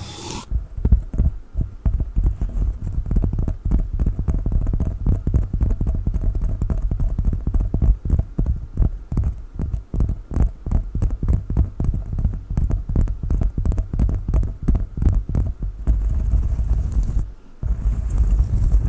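A coconut shell being tapped and scratched with fingers close to the microphone: rapid, irregular taps, several a second, with strong bass. Near the end they run together into a denser, continuous sound.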